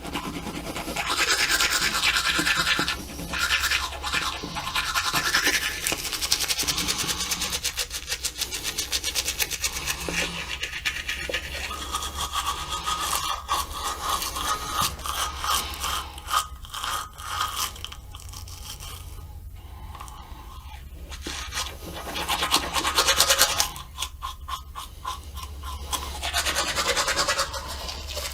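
Toothbrush bristles scrubbing back and forth on teeth in quick, scratchy strokes, louder in some stretches and easing off in short pauses, over a steady low hum.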